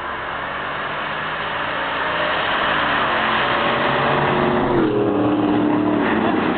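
Two V8 cars, an LS1 Trans Am and a 2004 Mustang GT with a Kenne Bell 2.1 twin-screw supercharger, running at full throttle in a drag race as they come closer and pass. The engine sound grows steadily louder and drops in pitch as they go by about five seconds in.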